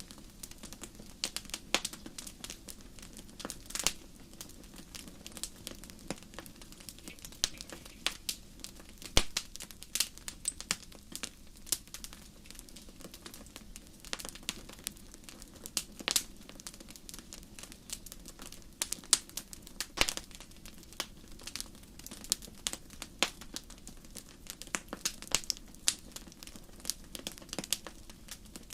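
Wood fire crackling in a fireplace: irregular sharp pops and snaps, sometimes several close together, over a low, steady flame noise.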